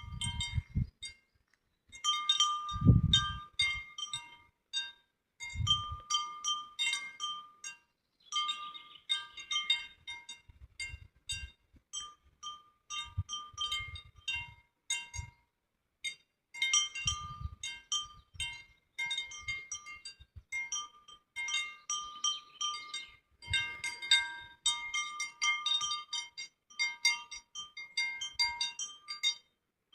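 Light bell-like chime tones on a few fixed pitches, struck in irregular clusters throughout with brief pauses. There are a couple of low thumps early on.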